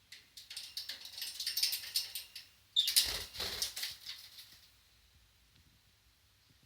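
Budgie fluttering its wings in two bouts of rapid flapping; the second bout starts suddenly, louder, about three seconds in and dies away about two seconds later.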